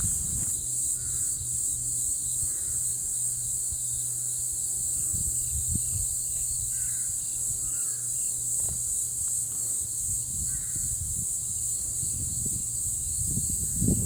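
Steady high-pitched insect chorus, with short, faint bird calls every second or two and a low steady hum underneath.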